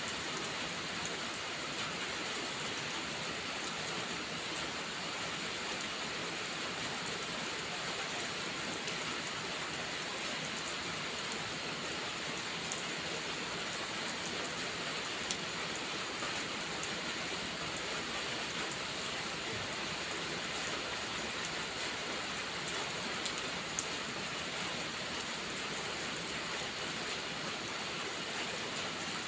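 Steady rain falling, an even hiss of drops with a couple of sharp single ticks partway through.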